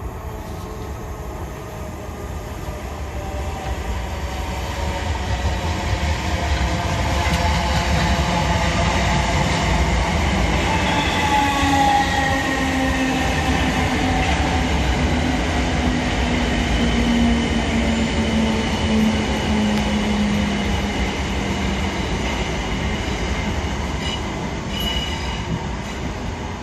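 Third-rail electric multiple unit train running through the station, building up to a loud rumble of wheels on rail and then easing off, with a motor whine that slowly falls in pitch through the middle.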